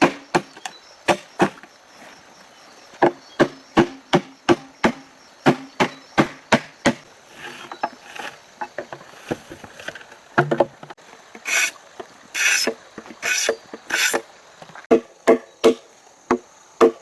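Repeated sharp blows on wood, chopping or hammering, coming about two to three a second with short pauses. A little past the middle come four longer, hissier strokes.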